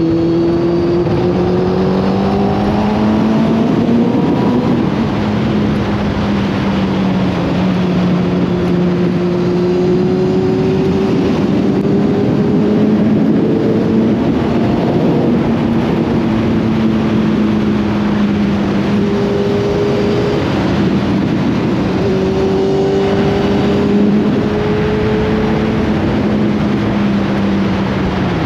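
Motorcycle engine running at a steady cruise, its revs rising and falling gently, over a continuous rush of wind noise.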